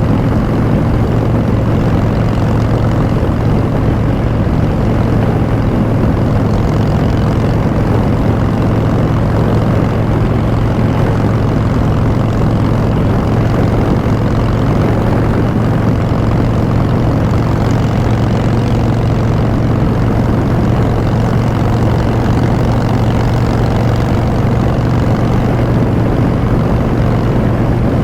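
Harley-Davidson Street Bob's air-cooled V-twin running through Vance & Hines Short Shots exhaust at a steady engine speed, a loud, unbroken exhaust note.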